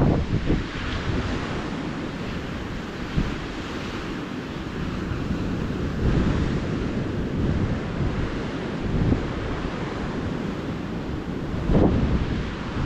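Ocean surf washing steadily onto a beach, with wind buffeting the microphone at the start and again near the end.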